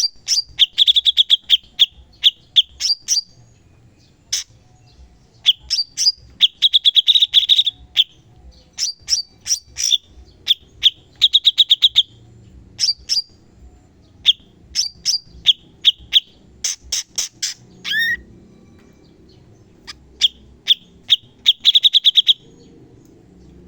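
Cucak cungkok singing loudly in sharp, rapid-fire bursts: quick trills of high notes repeated in short phrases with brief gaps between them. There is one longer pause a little past the middle before the bursts resume.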